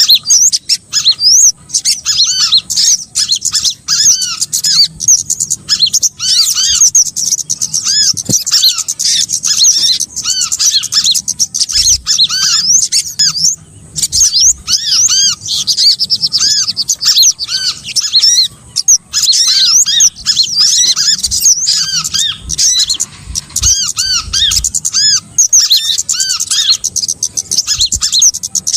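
Bird-lure playback of small songbirds: a dense chorus of rapid, high, overlapping chirps, with a lower row of short repeated chirp notes beneath, running on without a break.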